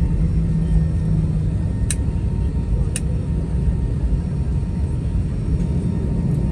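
Airliner cabin noise: the steady low rumble of the jet's engines and airframe heard from inside the passenger cabin, with two sharp clicks about two and three seconds in.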